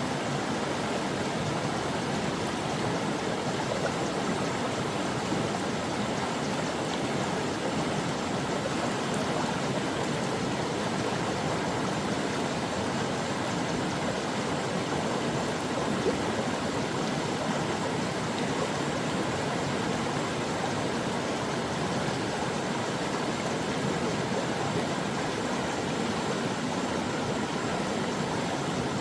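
A stream of water flowing steadily, an even rushing and gurgling without pause.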